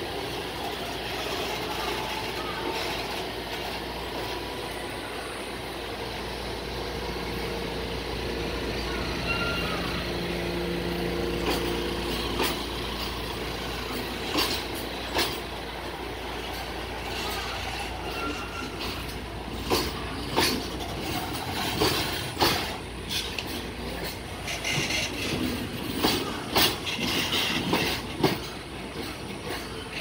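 Freight train's container flat wagons rolling past close by: a steady rumble of steel wheels on rail, with sharp clacks of wheels crossing rail joints that come thicker and in groups in the second half.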